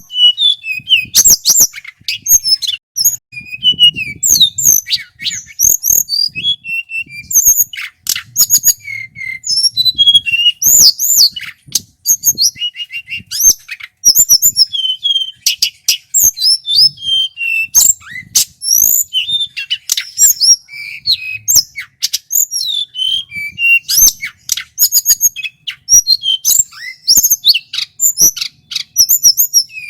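Male tledekan gunung (hill blue flycatcher) singing without pause: a fast, varied run of loud, clear, high whistled notes, glides and trills.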